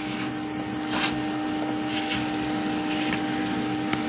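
Bee vacuum running steadily with a constant hum as it sucks up bees, with a few brief hissing surges.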